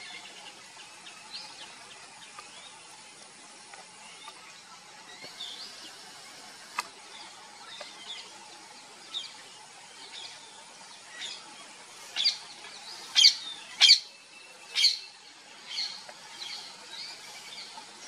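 Birds chirping: scattered faint chirps, then from about twelve seconds in a run of loud, sharp chirps about once a second.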